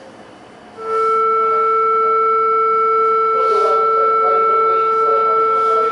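A station departure signal: a loud, steady electronic tone on two held pitches that starts about a second in and cuts off abruptly near the end, signalling that the train is about to close its doors and leave.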